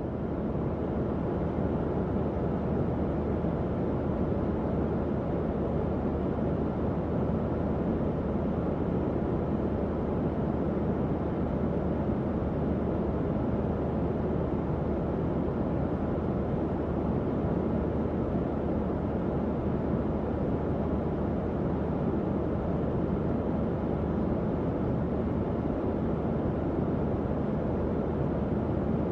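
Tower fan running: a steady, even rush of air with a faint low hum underneath.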